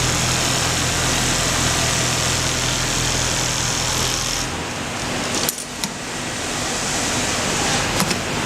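Automatic pattern sewing machine running with a steady mechanical hum. About halfway through the higher hiss drops away, and a few sharp clicks and knocks follow, twice.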